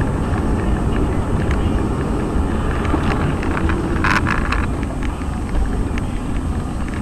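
Steady loud noise of a car driving on the road, with a brief higher-pitched sound about four seconds in.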